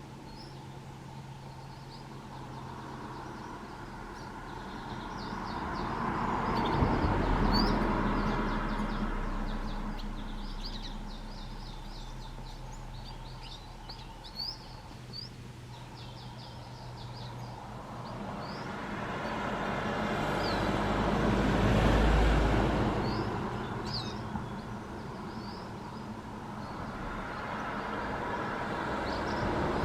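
Wild Atlantic canaries giving short, high chirping calls throughout, while vehicles pass on a road, swelling and fading twice (peaking about a quarter of the way in and about three quarters of the way in), louder than the birds.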